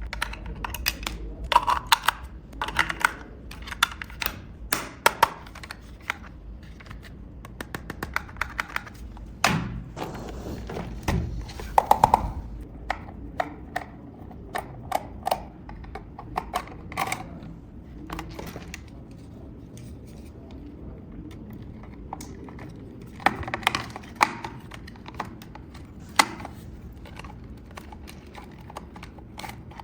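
Hard plastic toy parts and packaging being handled: irregular sharp clicks and taps, some in quick runs, with a few heavier thumps about a third of the way in.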